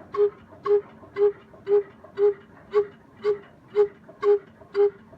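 Old desi 'black engine', a slow single-cylinder stationary diesel, running steadily at low speed. Its exhaust gives a regular pitched puff about twice a second.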